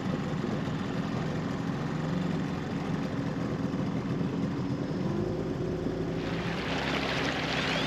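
A small tender's outboard motor running steadily under way, with a rushing hiss of water and wind that grows loud about six seconds in as the boat picks up speed.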